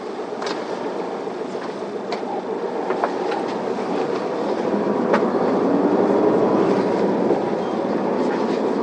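Isuzu Elga city bus heard from inside the cabin as it pulls away from a stop: diesel engine and road noise build as it accelerates, then level off. Light sharp rattles and clicks from the cabin come through several times.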